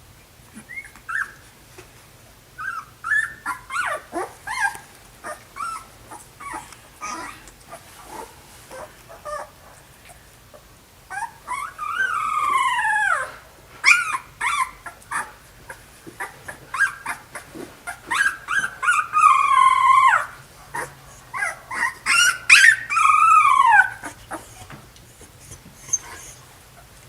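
Young puppies whimpering and crying in many short high-pitched whines and yips. Three longer whines come in the second half, each rising and then falling in pitch.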